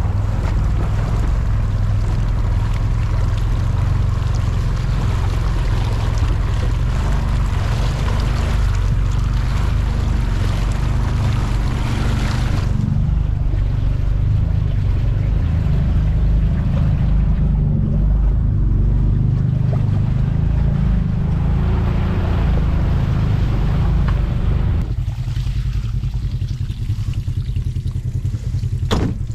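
Side-by-side UTV engine running steadily while driving through water, with water rushing and splashing around the machine. The splashing thins out about halfway through, and the engine gets quieter near the end.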